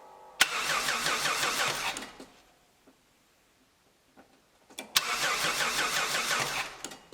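Starter motor of an old Opel/Vauxhall cranking the engine twice, about two seconds each time, each try opening with a sharp click; the engine does not catch. The starter now turns after the overheated, poorly connected main power cable to it was cleaned and given a new connection.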